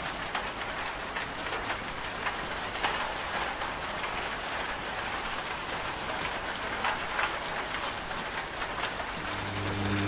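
Steady rain with a patter of drops. About nine seconds in, a washing machine's low steady motor hum starts up again under it.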